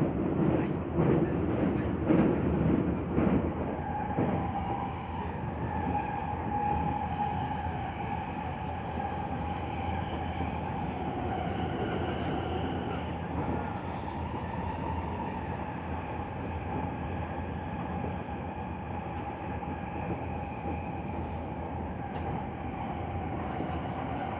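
Tokyo Metro Tozai Line electric train running, heard from inside the carriage. A few wheel knocks over rail joints come in the first few seconds. After that comes a steady motor whine over the rumble of the wheels on the track.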